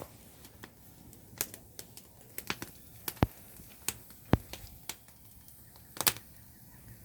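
Wood bonfire crackling, with irregular sharp pops and cracks, a few of them much louder than the rest.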